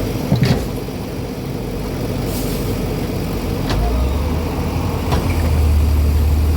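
Backhoe loader's diesel engine running, getting louder about four seconds in as it takes on load, with a few sharp knocks.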